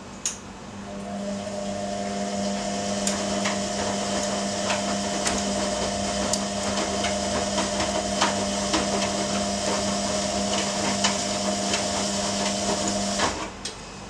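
Ariston AQXL95 washing machine running: after a sharp click, a steady motor hum starts with irregular clicks and knocks over it, then cuts off suddenly near the end.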